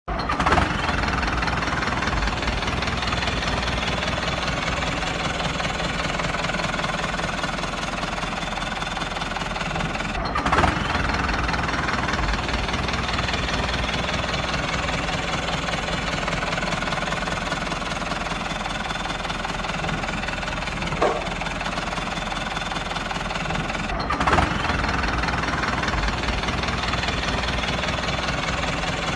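Diesel tractor engine running steadily at idle with a knocking beat. It breaks off briefly and swells louder about 10 and 24 seconds in.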